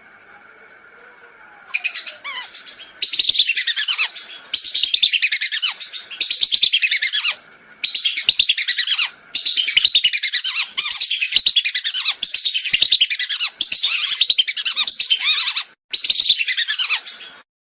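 Lesser whistling ducks (belibis) calling: repeated runs of rapid, high, falling whistles in bursts of a second or two, with brief pauses between. The recording is played as a hunting lure call.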